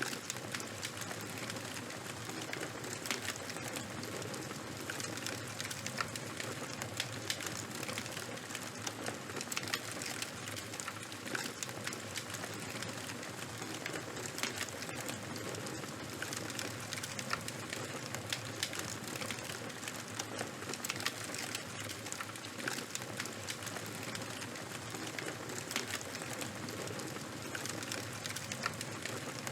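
Fire crackling steadily: many small sharp crackles scattered over a soft hiss.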